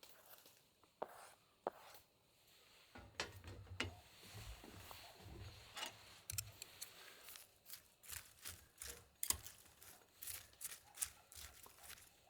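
Faint, irregular taps and clicks of small objects being handled, sparse at first and busier from about three seconds in.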